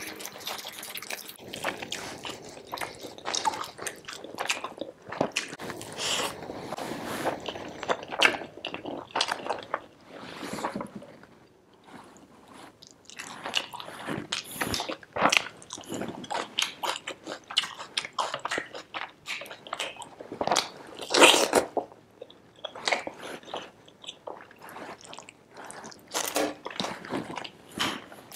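A person eating by hand: wet chewing and lip-smacking on rice and chicken curry, with crunchy bites of raw onion slices, in an irregular run of clicks and crackles with a brief lull about twelve seconds in.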